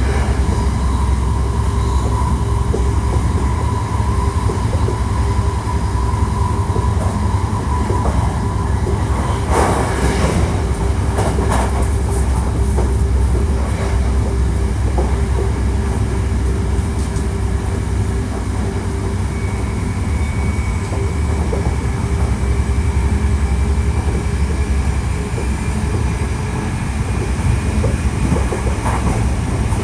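Hankyu 1300 series electric train running at speed, driven by a Toyo IGBT VVVF inverter: a steady rumble of wheels on rail with steady drive tones. A burst of clattering over joints or points comes about ten seconds in, and a faint rising tone starts partway through.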